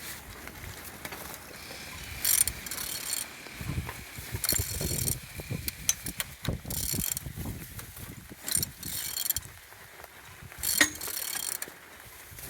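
Opel/Vauxhall Z10XE three-cylinder petrol engine being turned over by hand with a ratchet on the crankshaft bolt. The ratchet clicks in about five short bursts, with the crank and valvetrain moving in between. The engine turns freely with compression on all cylinders.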